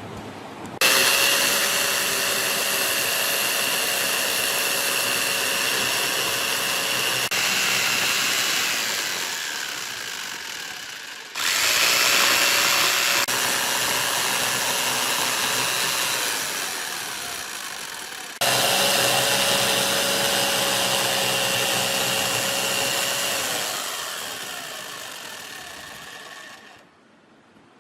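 Angle grinder running at full speed with a steady high whine, then spinning down in falling pitch after it is switched off. This happens three times: two runs start abruptly, a little over 11 and about 18 seconds in.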